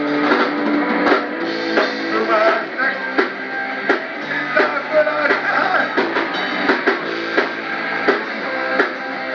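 Rock band playing an instrumental passage: electric guitars over a steady drum-kit beat.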